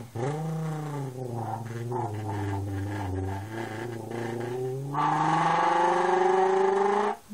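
A person imitating a Toyota 2JZ engine with his voice: a steady droning hum that sags lower in pitch. About five seconds in it turns louder and buzzier and climbs steadily like an engine revving up, then cuts off just before the end.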